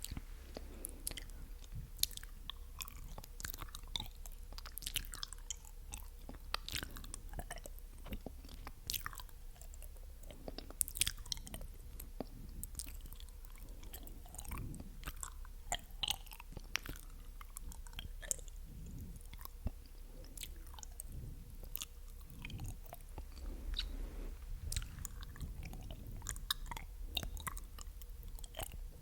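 Close-miked ASMR mouth sounds: wet, sticky clicks of tongue and lips, coming irregularly, often several a second.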